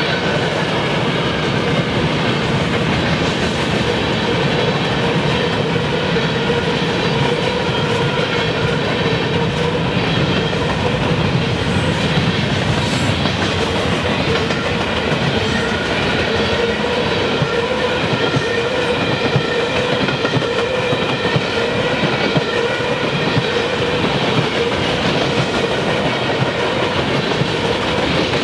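Freight train cars, covered hoppers and then tank cars, rolling steadily past: a continuous rumble of steel wheels on rail with clicking over the rail joints and a steady ringing tone from the wheels over it.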